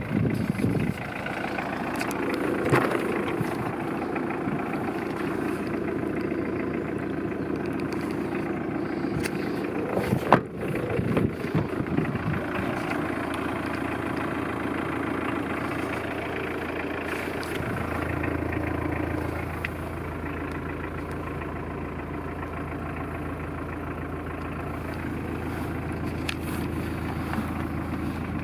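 2001 Mitsubishi L200 pickup's engine idling steadily, with a sharp knock about ten seconds in. Its note changes about eighteen seconds in, settling into a lower, steadier hum.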